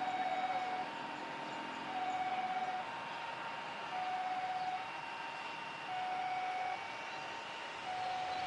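Electronic two-tone warning siren alternating steadily between a lower and a higher note, each held about a second, over a steady background hum.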